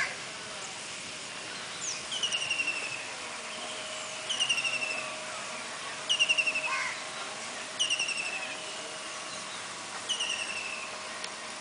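A songbird repeating a short, fast, descending trill about every two seconds, with a few rising whistled calls from another bird, one at the start and one about seven seconds in.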